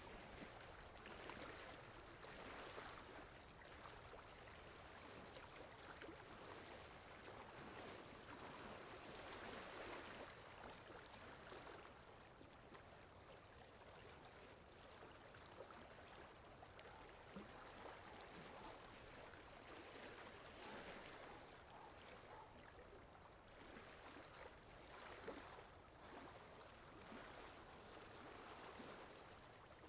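Steady rain falling, a soft even hiss that swells and eases now and then.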